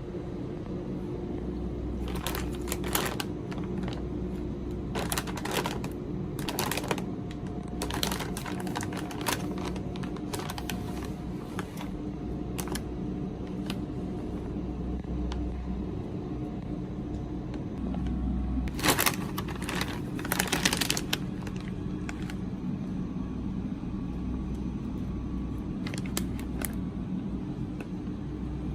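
Snack packaging being handled and opened: irregular bursts of crinkling and clicking over a steady low hum.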